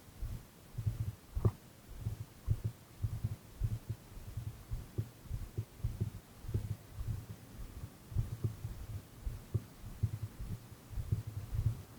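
Wind buffeting the microphone: irregular low rumbling thumps, with one sharper knock about a second and a half in.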